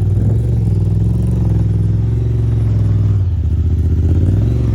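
Vehicle engine running hard at steady high revs under load during a mud recovery, dipping briefly about three seconds in and then picking back up.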